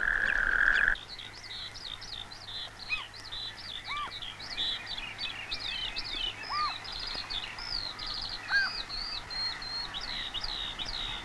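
Wild small birds chirping and singing: many short high chirps and quick trills overlap, with a few lower, rising-and-falling whistled notes. A steady hiss underneath cuts off about a second in.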